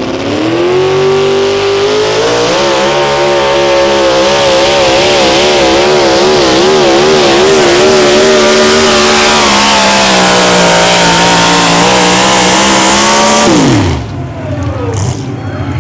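A pulling vehicle's engine at full throttle during a pull. Its pitch climbs at the start, then holds high with a fast regular wobble, then sags a little. Near the end it falls away sharply as the throttle is shut off.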